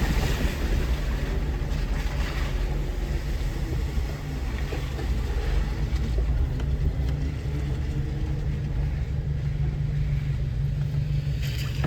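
Off-road vehicle engine and drivetrain running at low speed, a steady low rumble as the vehicle works along a rough trail.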